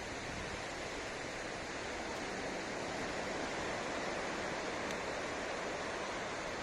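Ocean surf washing onto a beach, a steady rush that swells a little in the middle.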